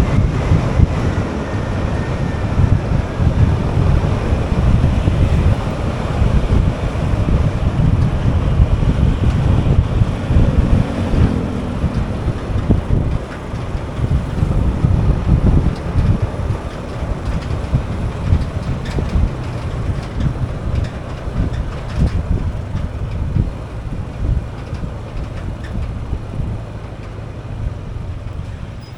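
Wind buffeting the microphone over the road and engine noise of a moving motorbike, a steady low rumble that eases somewhat near the end.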